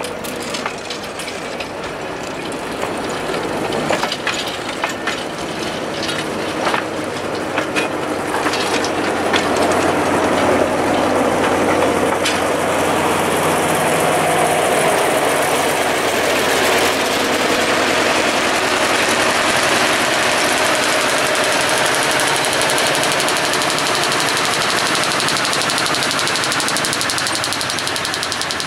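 Railway passenger coaches rolling slowly past, pushed by a small diesel shunter: wheels clicking over the rail joints, then a steady rolling rumble. The shunter's diesel engine grows louder, with its fast firing beats clear near the end as it draws close.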